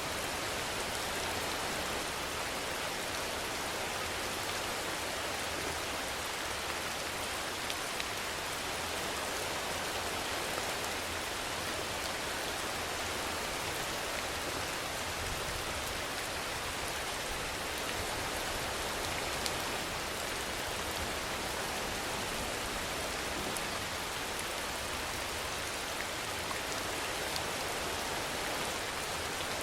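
Steady rainfall: an even hiss of rain with a few separate drops ticking through it.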